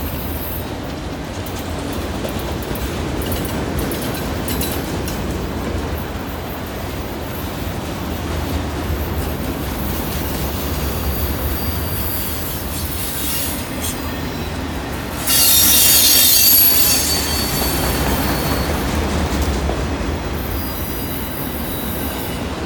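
Cars of a long freight train rolling through a curve: a steady low rumble and rattle of wheels on rail, with high wheel-flange squeal that comes and goes. A loud squeal breaks out about fifteen seconds in and lasts a second or two.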